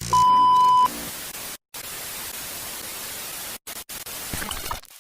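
A loud steady beep lasting under a second, then the hiss of white-noise static with a few brief dropouts, like a TV signal breaking up.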